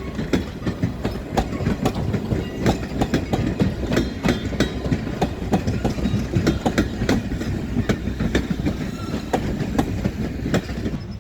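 Train rolling past close by, its wheels clacking over the rail joints in a quick, uneven run of clicks over a steady rumble.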